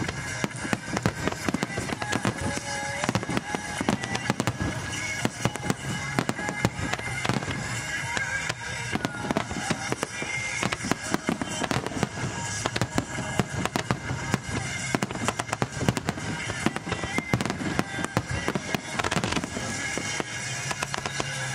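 Fireworks display in a rapid barrage: many aerial shells bursting and crackling in quick succession, with comets launching, over music playing throughout.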